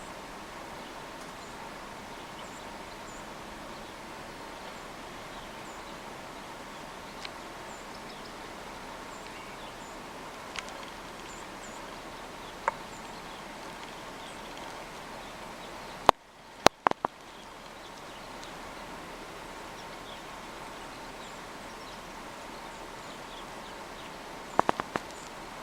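Faint, high chip calls of small birds at a feeder over a steady hiss, with a few sharp clicks about two-thirds of the way through.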